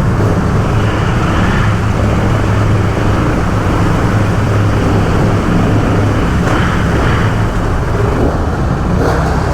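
Dirt bike engine running steadily at low revs while the bike moves through deep, fast-flowing floodwater, over a constant rush of water.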